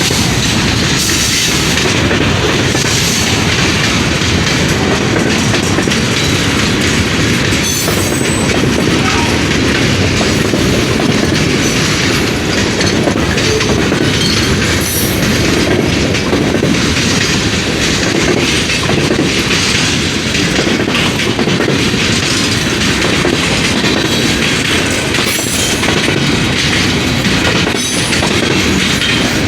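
Freight cars of a De Queen & Eastern shortline train rolling past, a loud steady rumble of steel wheels on rail with clicks over the rail joints.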